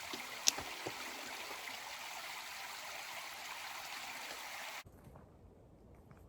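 A stream running steadily, an even rushing of water that cuts off abruptly about three-quarters of the way through. It leaves only a faint background with scattered light ticks.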